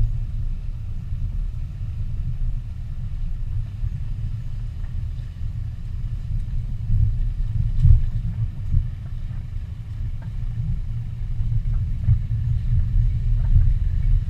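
Low, uneven rumble of a moving car, road and wind noise picked up by a GoPro, with a few faint knocks.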